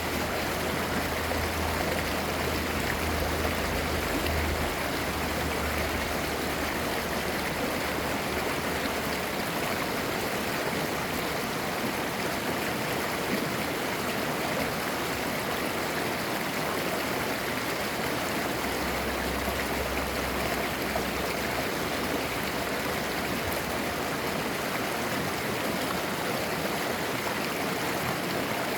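Mountain stream flowing over rocks: a steady rushing and babbling of clear water. A low rumble comes in under it at times.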